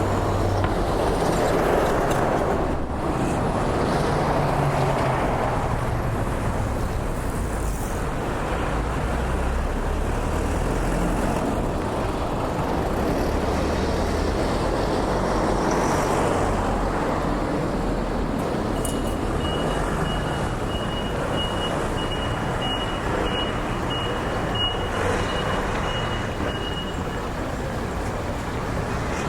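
Steady road traffic, cars and trucks passing with a low engine rumble and tyre noise. In the second half a high electronic beep repeats about twice a second for some eight seconds, then stops.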